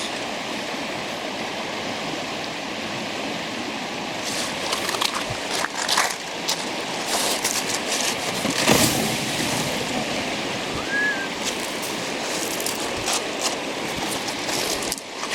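River current rushing steadily around a snag, with a few scattered knocks and splashes in the middle.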